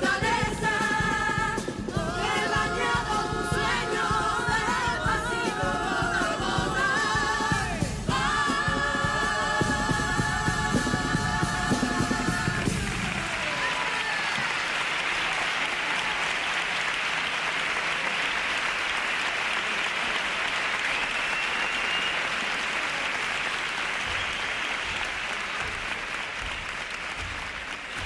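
Carnival comparsa choir singing in several voices over percussion, ending on a long held chord about twelve seconds in. The audience then breaks into applause that continues, easing slightly near the end.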